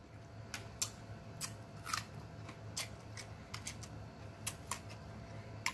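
Close-miked chewing of juicy cantaloupe, heard as irregular short wet clicks and smacks of the mouth over a faint steady low hum.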